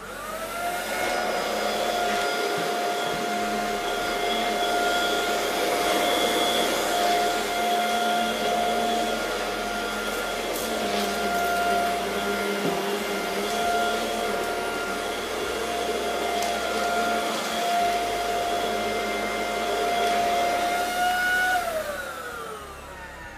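Panasonic MC-UL710 upright vacuum cleaner's motor spinning up with a rising whine, running steadily with a high whine and a rushing of air, then winding down near the end, its whine falling away.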